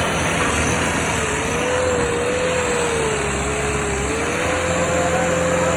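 Tractor engine running steadily under power, with a whining note that wavers slightly in pitch.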